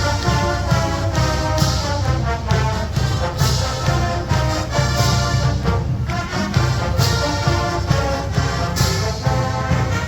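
Marching band playing: brass over drums and cymbals.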